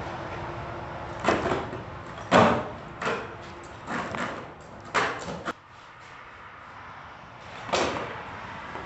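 A run of separate knocks and thuds, about seven in seven seconds, the loudest about two and a half seconds in.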